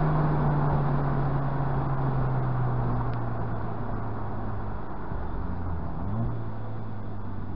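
Mazda MX-5's inline four-cylinder engine running with road and wind noise as the car slows: the engine note falls steadily, then the revs rise briefly about six seconds in and settle at a lower, steady note.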